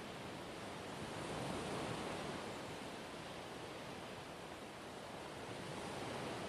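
Gentle ocean waves washing on the shore, a steady hiss of surf that swells softly about a second in and again near the end.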